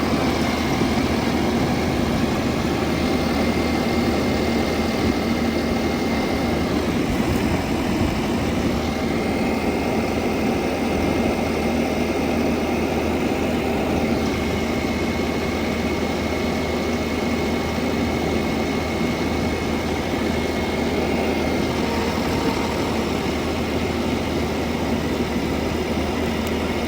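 Heavy machinery engine running steadily at a constant speed, with a thin, steady whine above the low engine hum.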